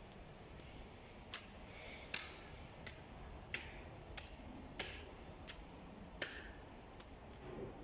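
A series of sharp, short taps or clicks at a fairly even pace, about three every two seconds, over a quiet steady background.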